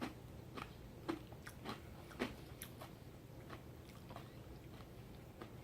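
A man chewing crunchy fried corn kernels (chili cheese corn nuts): a run of sharp crunches in the first couple of seconds, then fainter, sparser ones.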